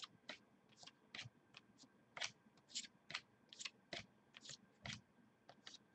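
Football trading cards being handled and flipped through: faint, irregular clicks and rustles, about two or three a second.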